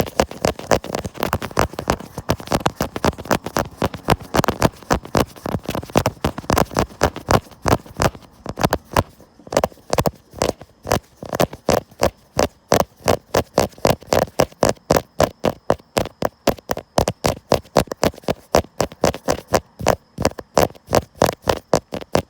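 Tapping on the camera, recorded close up: a fast, uneven flurry of taps that settles into an even rhythm of about four taps a second in the latter part.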